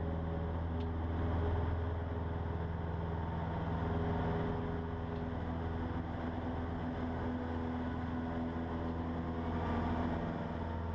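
Cessna 150's Continental O-200 four-cylinder engine and propeller droning steadily at high power for takeoff and climb, heard from inside the cockpit.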